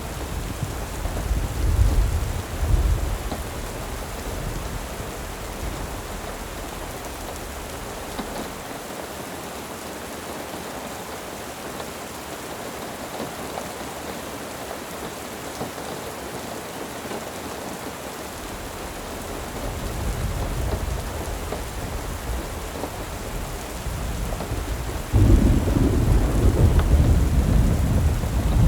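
Steady rain with rolling thunder. Low rumbles near the start fade to a quieter stretch of rain, build again around twenty seconds in, and a sudden loud thunder rumble breaks in near the end.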